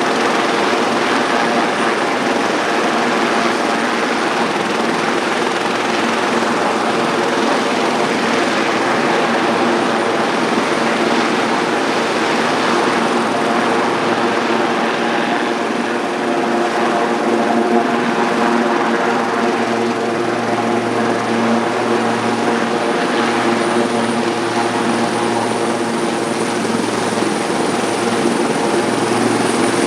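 Sikorsky S-76C helicopter's twin turboshaft engines and rotors running steadily, with a thin high turbine whine over a dense rotor and engine noise.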